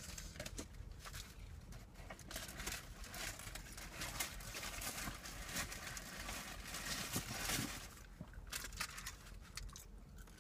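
Close-up chewing and biting of fast food, a chicken sandwich and French fries, with irregular soft crunches and some paper rustling.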